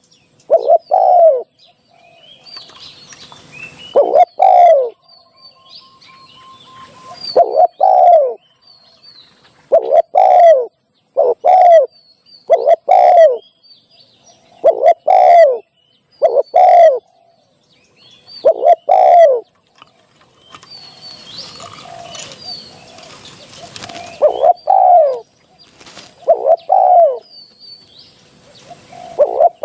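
Spotted dove cooing over and over, a short low phrase repeated every two to three seconds, with faint high chirps of other small birds in the gaps. This is the kind of dove call played as a decoy to lure wild spotted doves.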